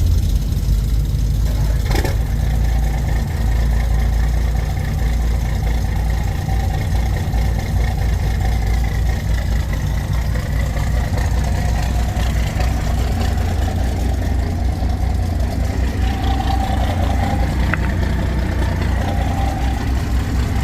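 Pickup truck engine idling with a steady, loud, deep rumble.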